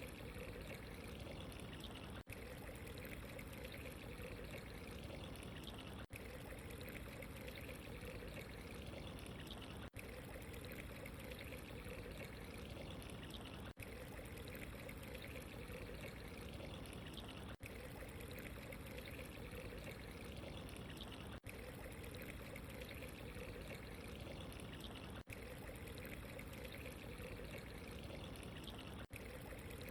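Steady trickling, pouring water ambience, with a brief dip in the sound about every four seconds where the short recording loops.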